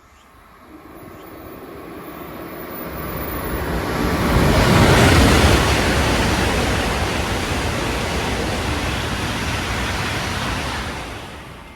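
Shinkansen bullet train passing without stopping at high speed. A rushing roar builds over about four seconds, peaks, holds while the cars go by, then falls away quickly near the end.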